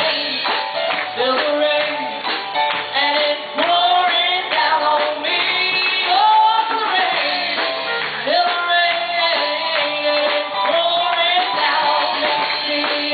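A woman singing a gospel song, holding long notes over a band accompaniment with a steady beat.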